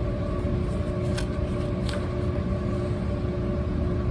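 Steady low mechanical hum with several fixed tones in it, like a small motor or fan running, with two faint ticks about one and two seconds in.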